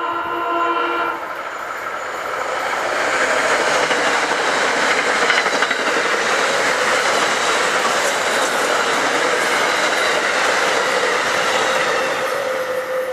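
Metro-North commuter train's horn sounding a chord that stops about a second in, then the train passing close at speed: a loud, steady rush and clatter of wheels on rails that builds, holds, and eases off near the end as the last cars go by.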